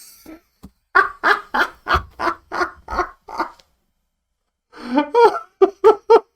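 A man laughing hard in quick repeated bursts: a run of about nine, a short pause, then a second run of several more.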